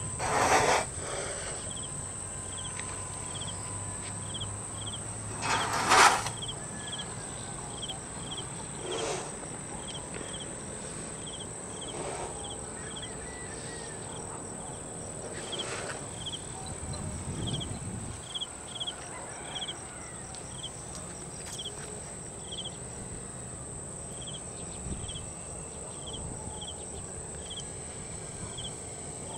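Insects chirping: a steady high trill with a regular run of short repeated chirps. Two brief louder noises break in, one near the start and one about six seconds in.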